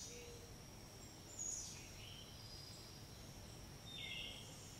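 Faint outdoor background: steady hiss with a few short, high bird chirps that sweep downward, one about a second and a half in and another near the end.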